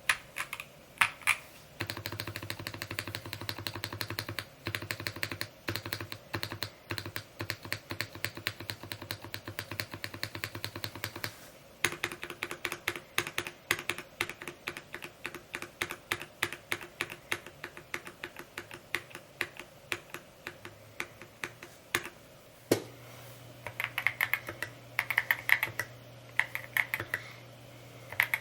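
Fast, continuous typing on a Mode Encore 2 mechanical keyboard: a dense run of keystroke clacks. The background changes abruptly a few times.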